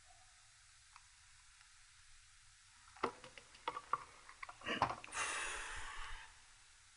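Quiet at first, then a run of small clicks and knocks of parts and tools being handled during soldering work on wiring, followed by a hiss lasting about a second.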